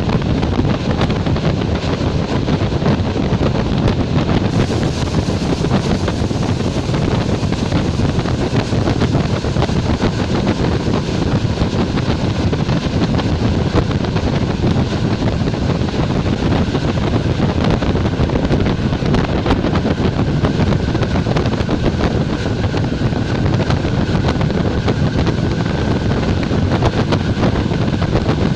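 Steady rushing ride noise of a Czech Railways class 460 electric multiple unit running at speed, wind and running gear together, with a faint steady whine coming in about two-thirds of the way through.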